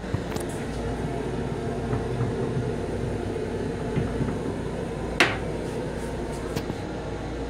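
Steady rumble and hum of a moving M7 electric railcar heard from inside its small restroom, with a few light clicks and one sharp knock about five seconds in.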